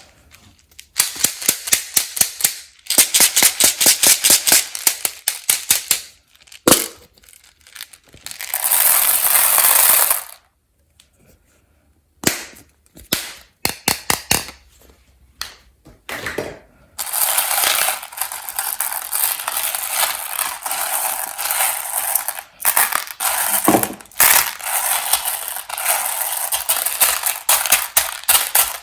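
Peanut M&M's candies and their plastic wrapper being handled: bursts of rapid crackling and clicking, a brief hiss-like rustle about nine seconds in, and a long run of dense crackling in the second half.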